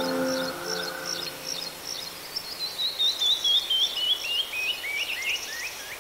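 A songbird singing: short high chirps, then a long cascade of slurred notes stepping down in pitch, about four a second. The end of a piece of background music fades out in the first second or so.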